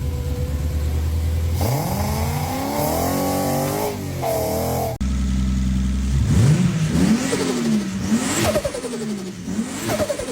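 A car engine revs up and down several times over a deep, steady bass line. The sound cuts off abruptly about halfway through, and the revving starts again right after.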